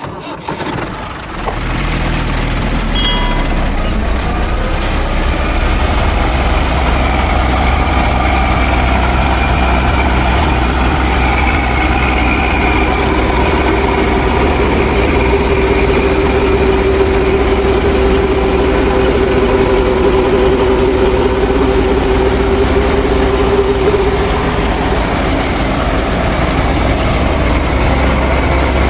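A machine's motor running steadily, with a low hum and a whine; a steady tone comes in about halfway through and drops away near the end.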